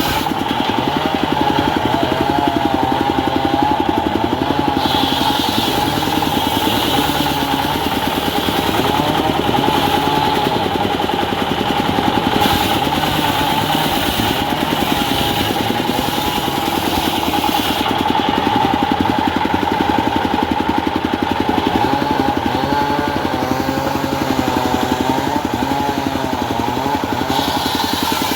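Diesel engine of a homemade circular saw rig running steadily, with its quick firing beat throughout and a wavering whine above it.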